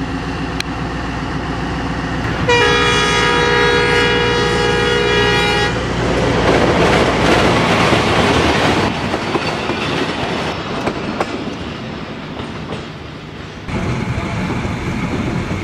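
A diesel locomotive passes. Its horn sounds one multi-note blast of about three seconds, then the coaches go by with a loud rumble on the rails that slowly fades. Near the end the sound cuts to the inside of a passenger carriage.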